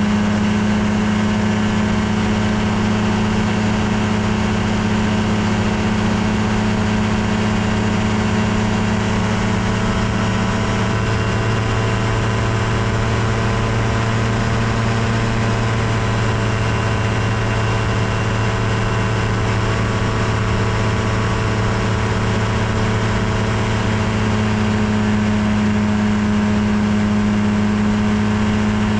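Kolb Firefly ultralight airplane's engine and propeller running steadily at a constant cruise setting in flight, with a slight change in tone about ten seconds in and again near the end.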